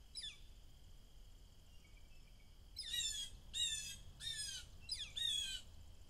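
A bird calling: one short descending call at the start, then a run of descending calls from about three seconds in, each under half a second long.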